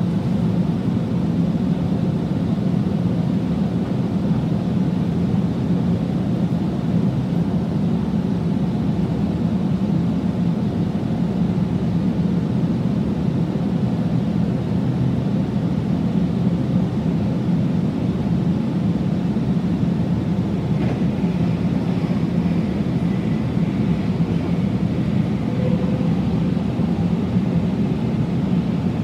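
Sydney Trains Millennium double-deck electric train running, heard inside the carriage as a steady low rumble. A faint higher whine joins about two-thirds of the way through.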